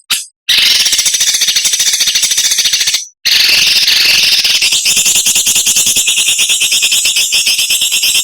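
A songbird's harsh, rapid rattling chatter (the 'besetan kasar' used to train caged songbirds), in two long phrases. The first stops about three seconds in, and the second starts a moment later, changing to a higher, more clipped rattle about five seconds in.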